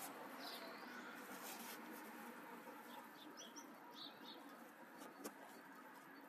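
Faint, short bird chirps, one about half a second in and a small cluster a few seconds later, over a quiet outdoor background with a few faint clicks.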